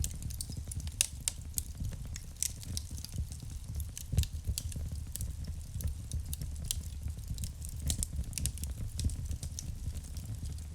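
Wood fire burning in a fireplace: frequent sharp crackles and pops over a low steady rumble of the flames, with one louder pop about four seconds in.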